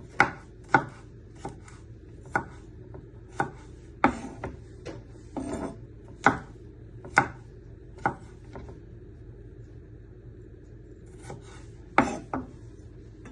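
Kitchen knife chopping garlic into fine pieces on a chopping board: irregular sharp knocks of the blade on the board, pausing briefly about two-thirds of the way through before a few more chops.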